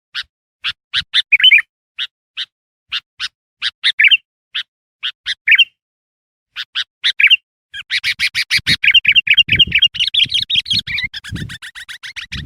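Bulbul (kutilang) calling, used as a lure to draw wild bulbuls: a series of sharp chirps about one or two a second with short warbled phrases. From about eight seconds in it breaks into a fast chattering run, with low thuds underneath.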